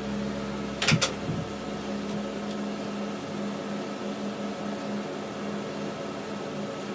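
Steady electrical hum with a slight pulse, from the speaker system switched on for a test before any music plays. A sharp click about a second in.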